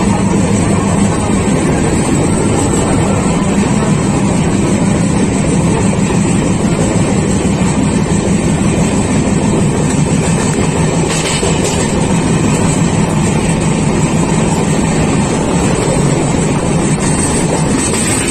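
Steady running noise of a moving passenger train heard at a carriage window: an even rumble of wheels and carriage.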